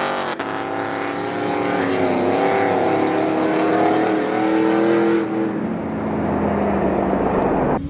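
Cars drag racing on a street, engines at full throttle pulling hard. About five seconds in the sound turns duller and quieter.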